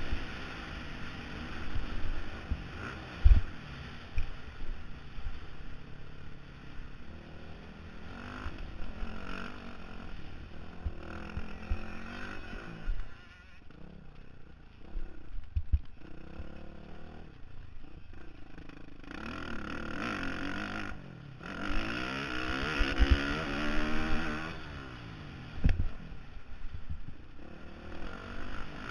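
Honda CRF450R single-cylinder four-stroke motocross engine running under a helmet camera, its pitch rising and falling as the throttle is opened and rolled off. It drops back in the middle, then revs up hard and loud later on, with a brief break in the sound about three quarters of the way through.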